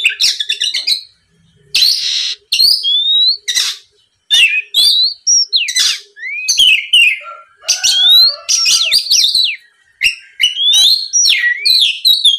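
An Oriental magpie-robin (kacer) singing loudly in a varied run of short phrases: clear whistles sliding up and down, mixed with harsh rasping notes, with brief pauses between phrases.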